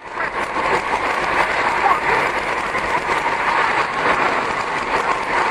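Traffic noise picked up by a car's dashcam: a steady hiss of road and engine sound.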